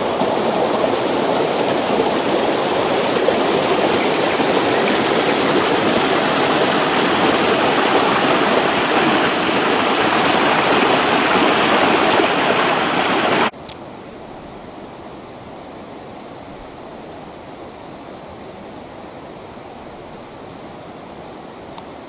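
Creek water rushing and splashing over rocks in a steady, loud rush. About two-thirds of the way in, the sound drops suddenly to a much quieter, duller rush.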